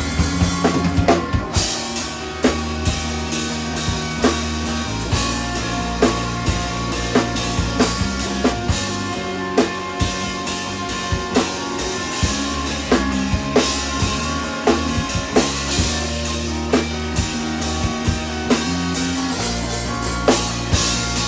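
Live instrumental rock from a three-piece band: a drum kit keeps a steady beat of regular sharp hits under sustained guitar chords.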